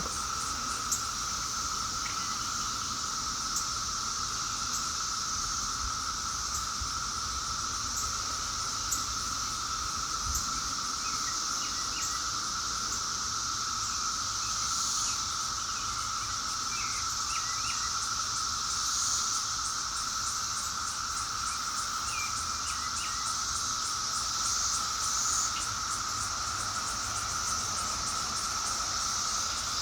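Steady outdoor insect chorus, crickets trilling without a break at two pitches, one mid and one high. A few faint short chirps come through at times.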